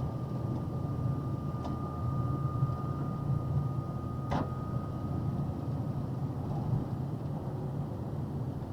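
Steady low drone of a box truck's engine and road noise heard inside the cab while driving, with a thin steady whistle that fades out about six seconds in and a single sharp click about four seconds in.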